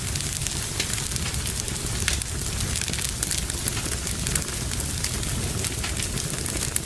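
Fire burning in a fireplace, with a steady low rumble under many irregular sharp crackles and pops.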